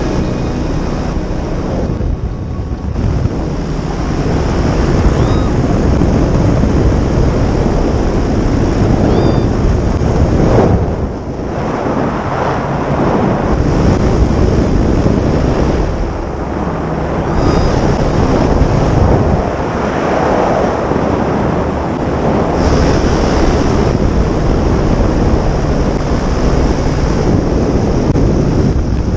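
Loud, gusting rush of wind on the microphone, rising and falling in strength, with brief dips at about two, eleven and sixteen seconds in.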